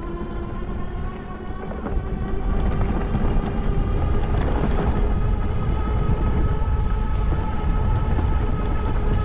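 Electric bike hub motor whining steadily under throttle, its pitch rising slowly as the bike speeds up, over a low rumble of wind on the microphone.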